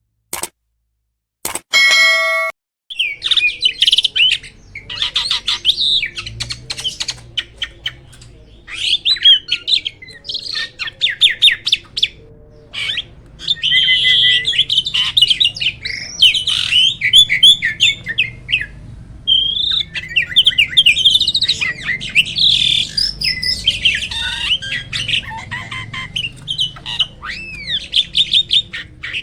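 A jalak starling singing a long, varied song of rapid chirps, chatters, trills and whistled glides. A short steady electronic-sounding tone comes about two seconds in, just before the song starts.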